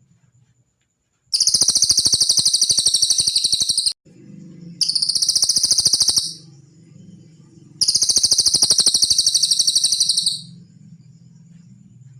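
A cililin (little spiderhunter) singing three long, very fast, high-pitched trills, each two to three seconds long, with short pauses between them. A faint low hum lies underneath.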